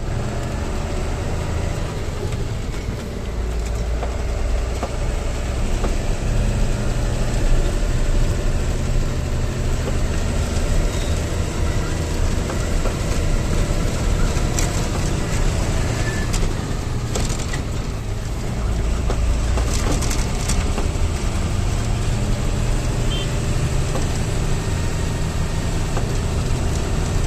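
Heavy vehicle engine running steadily with a low rumble, with scattered cracking and rattling noises over it.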